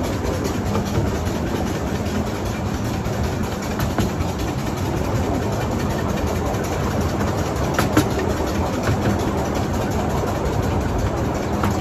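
Miniature railway train running along the track, heard from an open carriage just behind the locomotive: a steady rumble of wheels on rail, with a sharp click about eight seconds in.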